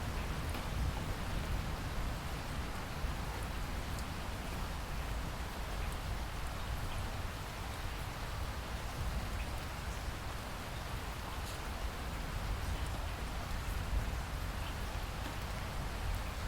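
Steady rain falling, an even hiss with scattered drop ticks over a low rumble.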